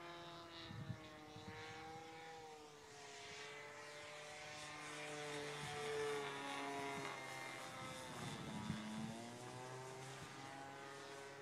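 Glow-fuel engine of a radio-controlled Hangar 9 P-51 Mustang model flying at a distance, its propeller drone rising and falling in pitch as the plane passes and turns; loudest about six seconds in.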